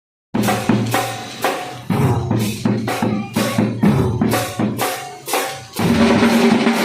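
School marching drum band playing: drums struck in an even beat about twice a second, turning into a dense, continuous roll near the end.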